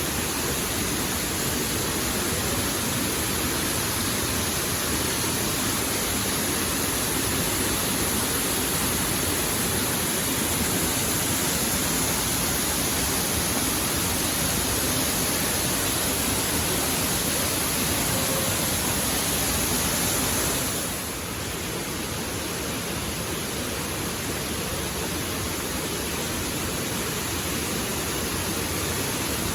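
Waterfall: a steady, even rush of falling water, dropping slightly in level about two-thirds of the way through.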